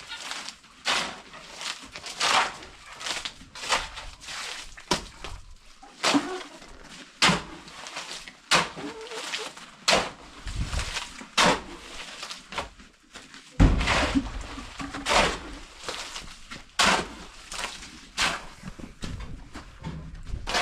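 Hand tools scraping through wet cement mortar in short repeated strokes, about one a second, with a couple of dull thuds partway through.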